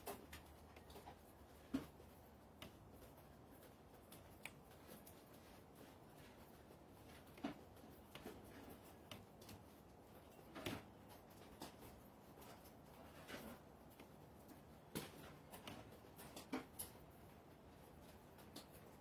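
Near silence with a dozen or so faint, scattered clicks and knocks.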